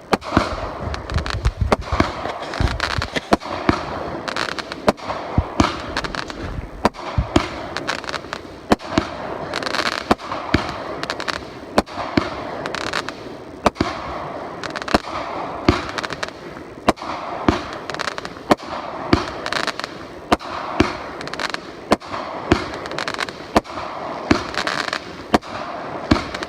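Fireworks going off nonstop: many sharp bangs at an irregular pace, several a second, over a continuous crackle. There is a low rumble in the first couple of seconds.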